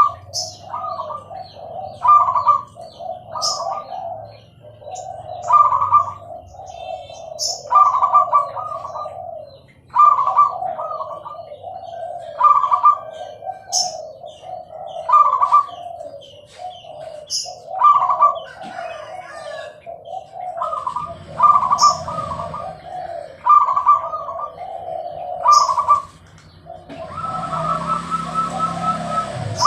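Zebra dove (perkutut) cooing over and over, a rippling phrase about every two seconds, with short high chirps in between. Near the end a steady hiss comes in.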